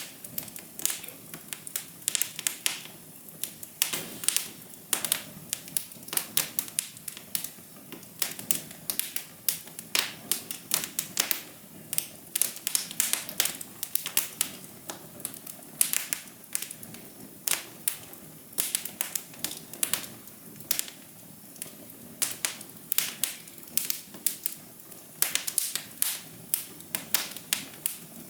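Fire crackling: irregular sharp pops and snaps, several a second, over a soft steady hiss.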